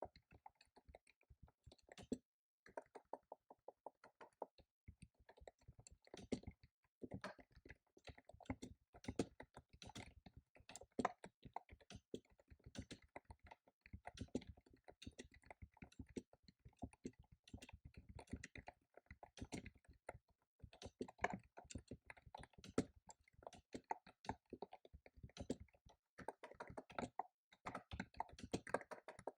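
Computer keyboard being typed on quickly and steadily, a fast run of key clicks broken by a few brief pauses.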